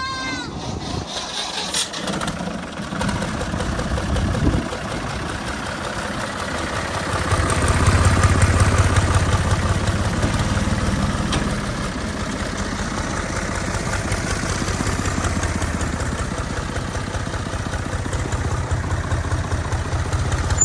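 A 65 hp tractor's diesel engine running steadily while it drives a reaper, growing louder for a few seconds about a third of the way in.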